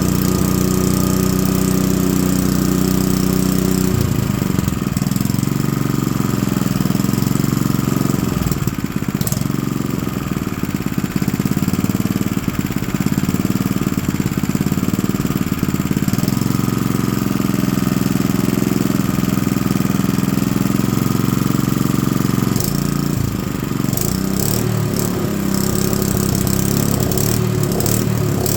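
Honda GX110 3.5 hp single-cylinder four-stroke engine running steadily, its note shifting about four seconds in and again near the end.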